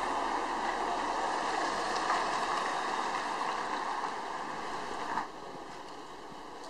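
Steady rushing noise that drops suddenly to a lower level about five seconds in.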